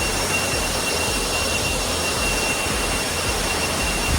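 Waterfall roaring: a steady, loud rush of falling water, with a thin steady high-pitched tone running over it.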